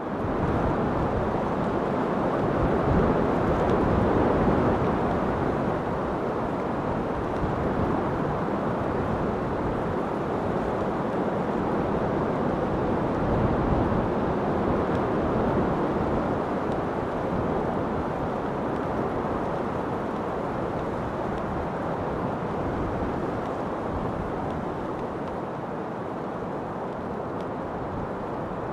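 Steady wind noise, a low, even rush that comes in quickly at the start, swells gently a couple of times and eases off slightly toward the end.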